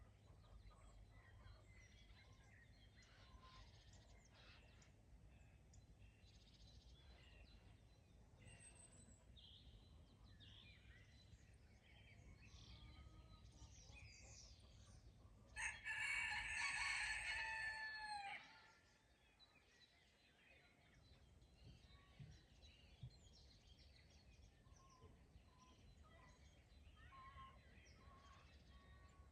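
A rooster crows once about halfway through, a single call of about two and a half seconds that drops in pitch at the end. Faint songbird chirps are scattered around it, and a low steady hum stops just after the crow.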